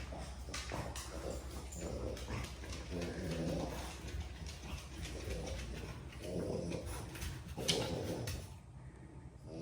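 French bulldog making a run of short, irregular vocal sounds over a low steady hum.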